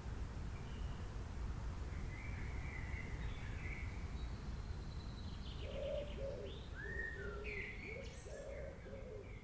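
Nature ambience of small birds chirping and twittering. From a little past halfway a lower call repeats again and again, all over a steady low rumble.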